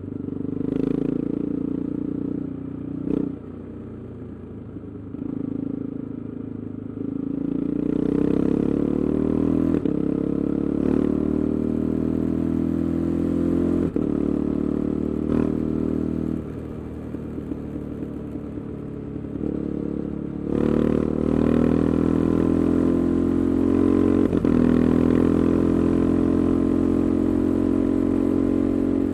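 KTM 390 Adventure's single-cylinder engine running through an aftermarket Arrow exhaust with the resonator removed, under way. The engine note rises and falls with the throttle, gets louder about eight seconds in and again about twenty seconds in, and drops back twice, near three and a half and sixteen seconds.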